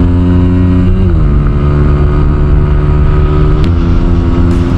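Motorstar Z200-series motorcycle engine running under way at steady speed, heard from the rider's seat. Its note drops about a second in and steps back up a little past halfway.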